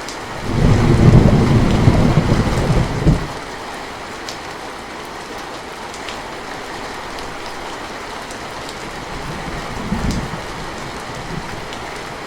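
Steady rain falling, with a loud low rumble of thunder about half a second in that lasts some three seconds, and a weaker rumble near the end.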